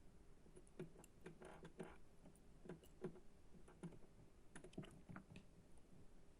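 Faint, irregular light clicks and taps, about a dozen, unevenly spaced with no steady rhythm.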